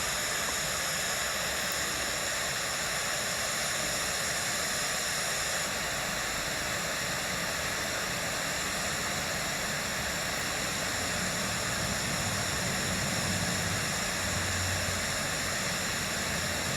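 Steady, even hiss with no distinct events, and a faint low rumble that swells slightly after the middle.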